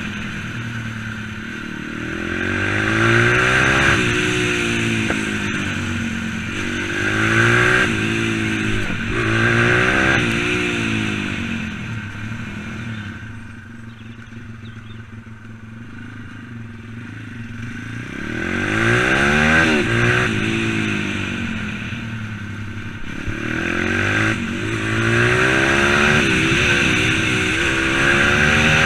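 M2R 140cc pit bike engine under riding, revving up and easing off again and again with rising and falling pitch. Around the middle it falls back to a quiet low run for a few seconds before revving up again.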